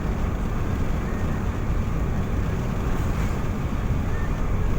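Car on the move: a steady low road and engine rumble.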